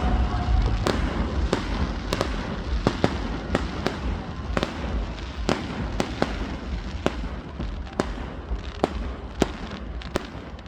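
Fireworks going off: a steady run of sharp cracks at uneven spacing, about one to two a second, over a continuous low rumble.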